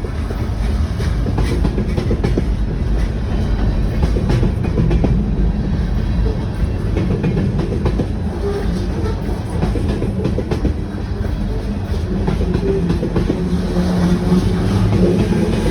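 A train passing: a steady, heavy rumble with the wheels clicking over the rail joints.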